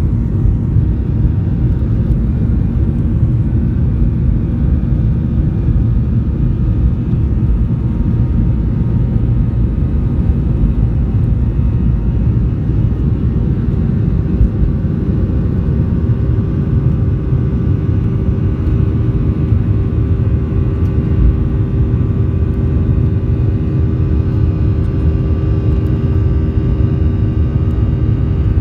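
Boeing 737-800 airliner's CFM56-7B jet engines running as a steady, deep rumble, with steady engine tones coming in about halfway through.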